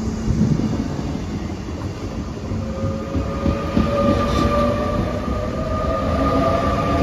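TER passenger train departing and accelerating past, its wheels rumbling and knocking on the rails; from about three seconds in, a motor whine sets in and rises slowly in pitch as it gathers speed.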